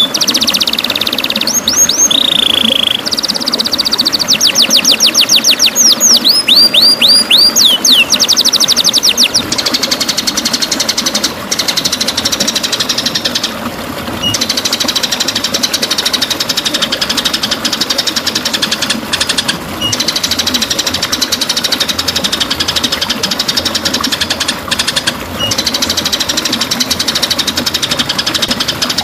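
White-rumped shama song played as a training (masteran) track: rapid volleys of high sweeping whistled notes for the first ten seconds or so, then a continuous fast, buzzing rattle-trill.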